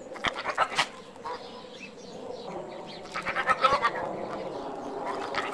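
An animal calling, with a few short sharp sounds in the first second and a run of calls about three seconds in.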